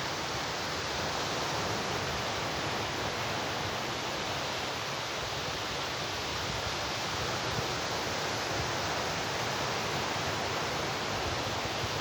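Steady rushing noise of sea surf, with wind buffeting the microphone in low gusts.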